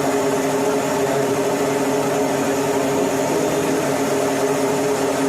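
Marine engine running steadily, a constant hum that holds the same pitch throughout.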